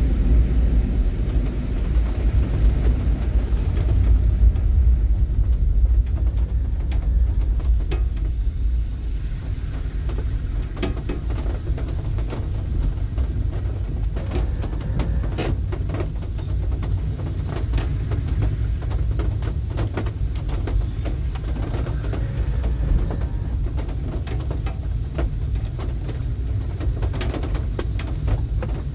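Steady low rumble of a moving road vehicle, with scattered faint ticks.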